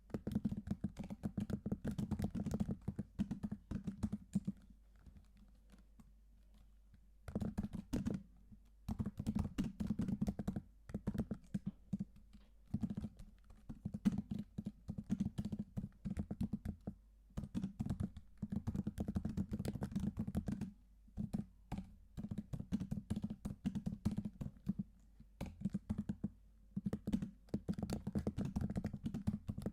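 Typing on a computer keyboard: runs of fast, sharp key clicks, broken by short pauses and one longer pause of a few seconds near the start.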